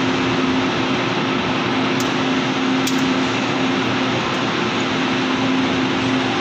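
Train at a station platform, running with a steady loud rushing noise and a low hum, with two short clicks about two and three seconds in.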